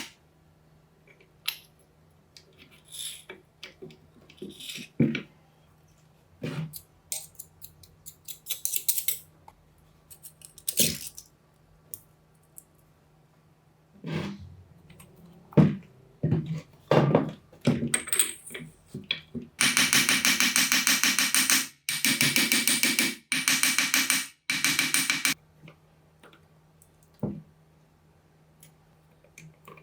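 Metal parts and hand tools clicking, knocking and scraping on a workbench. About two-thirds of the way in, a power tool's motor runs in four short bursts, each a second or two long.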